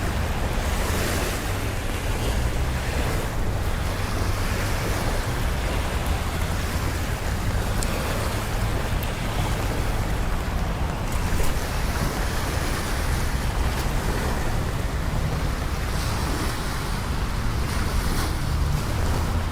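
Steady rain and city traffic: a continuous hiss over a low rumble, with no single event standing out.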